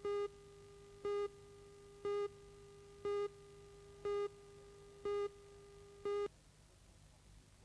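Countdown beeps from a broadcast commercial tape's leader: short pitched beeps, one each second, seven in all, over a faint steady tone. They stop a little after six seconds in.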